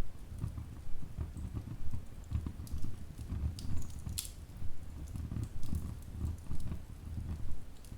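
Wood fire burning in a fireplace: logs crackling with scattered sharp pops, the loudest about four seconds in, over a low uneven rumble from the flames.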